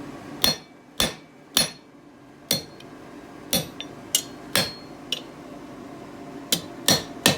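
Blacksmith's hammer striking hot steel stock laid over a hardy in the anvil, chopping partway through the bar to cut off a piece. About a dozen sharp blows at an uneven pace, several with a brief metallic ring, and a quick cluster near the end.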